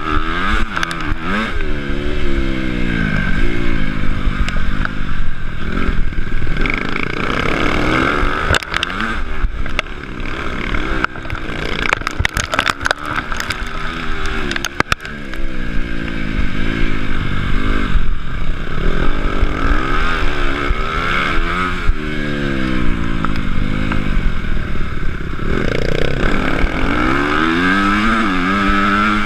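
Honda CRF250 four-stroke single-cylinder motocross engine heard from on board, revving up and dropping back again and again as the rider accelerates and shifts around the track. A cluster of sharp clattering knocks comes in around the middle.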